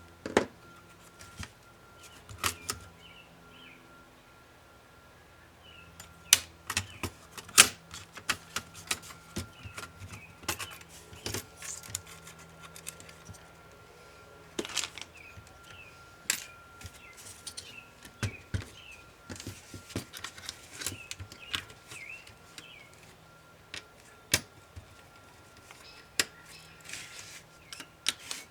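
Irregular clicks and taps of plastic laptop parts and small tools being handled while an HP ProBook 450 G5 is taken apart, some sharp and close together, with a quieter stretch a few seconds in.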